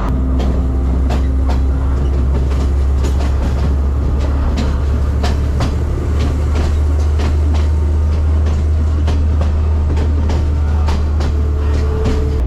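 Passenger train running along the track: a steady low rumble with frequent sharp clicks of the wheels passing over rail joints.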